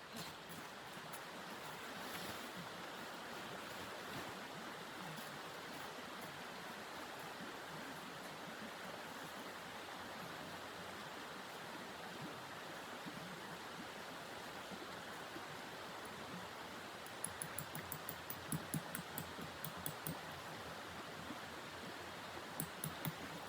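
Steady hiss of wind in a blizzard, with a run of short crisp crunching clicks about three-quarters of the way through and a couple more near the end.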